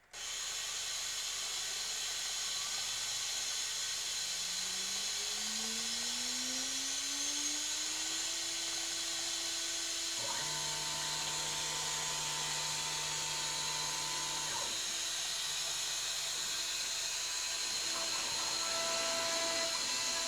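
CNC milling machine spindle spinning up with a rising whine that levels off about eight seconds in, over a steady high hiss. After that it runs steadily, with other steady tones coming and going.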